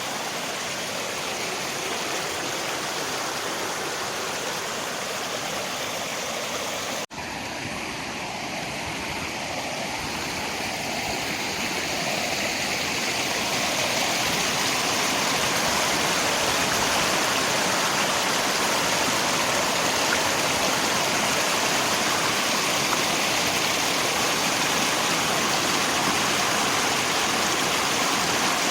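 Steady rush of river water, with rain mixed in. About seven seconds in it drops out for a moment, then swells gradually louder and holds.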